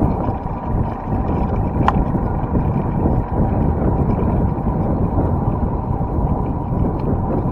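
Wind rushing over the microphone while riding a bicycle, a steady low rumble mixed with road noise, with a sharp click about two seconds in.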